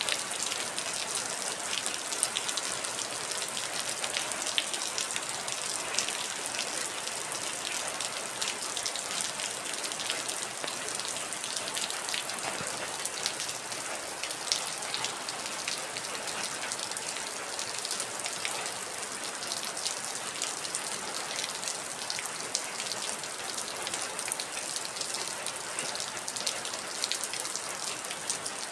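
Steady heavy rain: a dense hiss strongest in the highs, full of close, crisp drop impacts on a hard surface.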